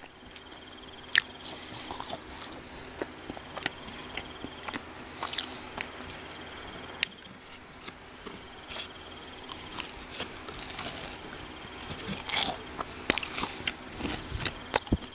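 Close-miked eating of crunchy fried fast food: crisp bites and crackles scattered between quieter chewing, with a sharp crack about a second in and another about seven seconds in, and louder crunching from about twelve seconds on.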